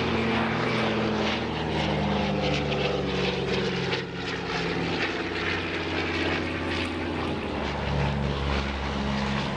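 Propeller aircraft's piston engine running with a steady drone, its pitch holding even throughout.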